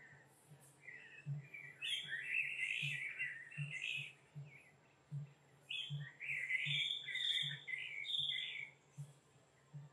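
Wild forest birds singing: two long chattering phrases, the first about a second and a half in and the second about six seconds in. Under them a short low pulse repeats a little more than once a second.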